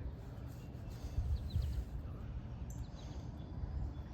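Outdoor ambience: a few short, high bird chirps over a steady low rumble.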